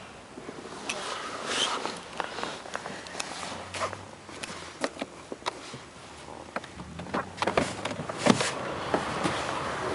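Handling noises in a car's interior: irregular clicks and knocks with light rustling, several sharper knocks in the second half, and no engine running.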